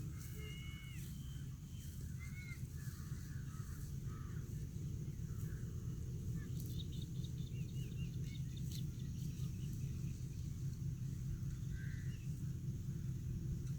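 Birds chirping and calling in short scattered phrases over a steady low rumble, in rural outdoor ambience.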